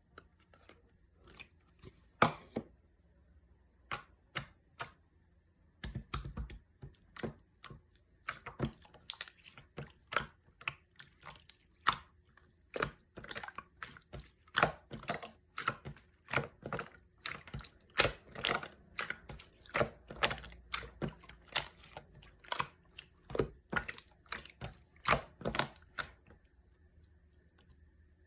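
Slime being squished and pressed by hand, giving sharp, irregular clicks and pops. A few come scattered at first, then from about six seconds in they come thick, several a second, before thinning out near the end.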